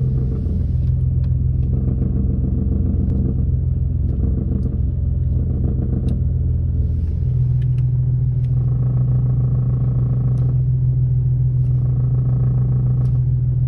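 Nissan 370Z's 3.7-litre V6 running at idle, with a weird, irregular clunking and rattling noise whose cause is unknown; the owner suspects the clutch. The engine note changes about halfway through.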